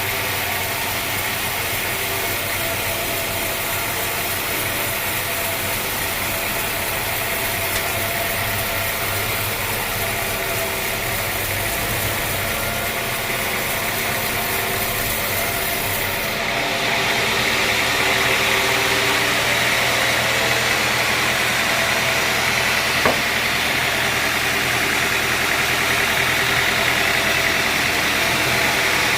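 Sawmill machinery running steadily, a constant motor hum with a hiss over it. About halfway through the sound shifts abruptly to a slightly louder, hissier running, and a single sharp click comes a few seconds later.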